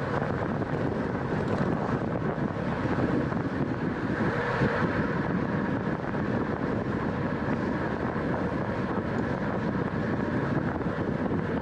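Steady wind rushing over the microphone of a camera riding on a racing bicycle at speed.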